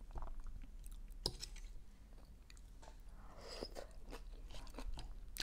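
Close-miked chewing of leafy arugula salad, soft and crackly, with a few sharp clicks.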